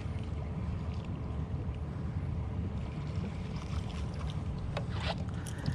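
A boat's motor running steadily: a low hum with a faint steady whine above it, and a few light clicks.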